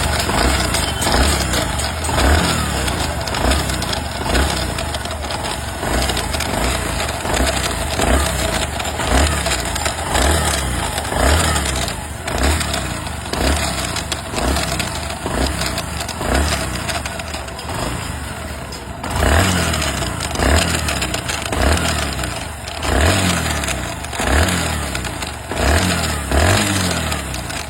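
Bajaj Platina ES motorcycle's single-cylinder engine running on the stand and revved in repeated short blips, the pitch rising and falling about once a second. This demonstrates an intermittent abnormal noise under revving that the mechanic suspects comes from the electric-start (self-start) gear.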